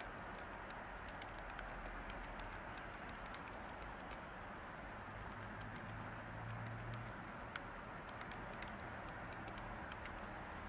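Light typing on a computer keyboard, scattered key clicks at an irregular pace, over a steady white-noise hiss.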